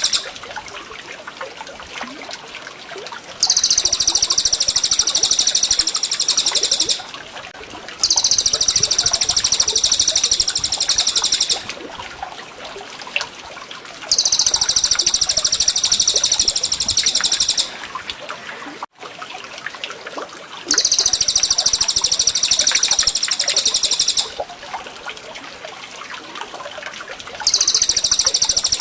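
Recorded songbird song of the cucak jenggot and cililin kind: loud, very high-pitched bursts about three and a half seconds long, cutting in and out five times, with softer scattered chirps in the gaps.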